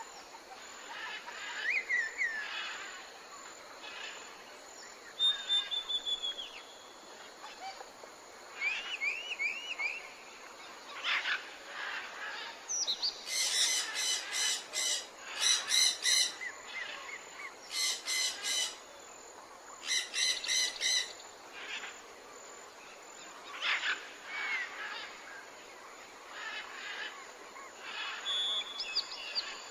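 Several birds singing and calling: short whistles, chirps and sliding notes, with a series of loud, rapid rattling trills about halfway through.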